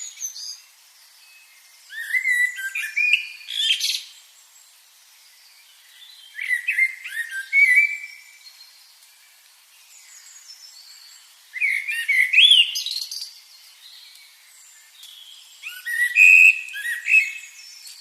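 A songbird singing: four phrases of quick chirps and whistled glides, one every four to five seconds, with short pauses between.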